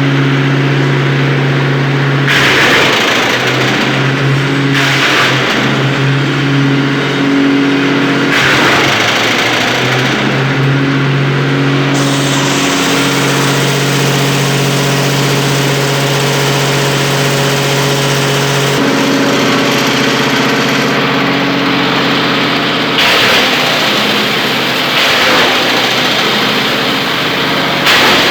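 Wood chipper driven by a 17 hp petrol engine running steadily at speed, its note shifting a few times under load. Short bursts of harsh crunching noise come every few seconds as branches are chipped.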